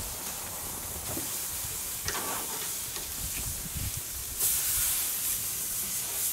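Chicken breasts sizzling on a hot grill grate, a steady hiss with a couple of light clicks; the sizzle grows louder about four seconds in.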